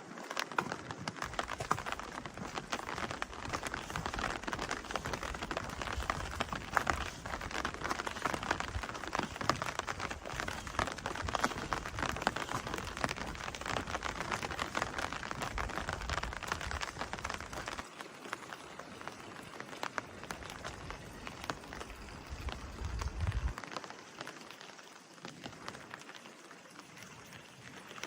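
Steady rain falling, a dense hiss of many small drop ticks, growing quieter in the last few seconds.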